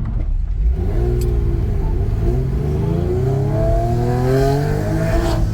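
Sports car's engine and exhaust heard from inside the cabin as the car accelerates, the engine note climbing in pitch over several seconds and dropping near the end.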